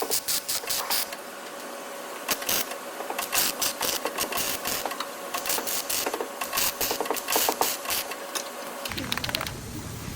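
Bursts of rapid mechanical clicking, several runs of sharp clicks separated by short gaps, over a faint steady hum. Near the end the clicking stops and gives way to a low rumble.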